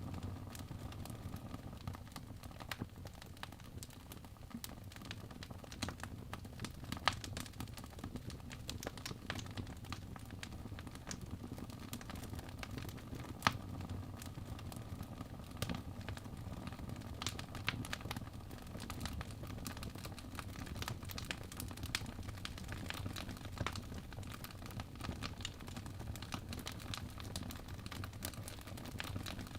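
Wood fire burning in a fireplace: continuous crackling with scattered sharp pops, a few louder than the rest, over a soft low rumble of the flames.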